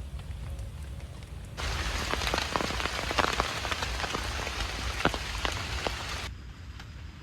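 Rain pattering down, dense with sharp individual drop strikes, over a quieter hiss. It comes in suddenly about a second and a half in and falls away abruptly about a second before the end.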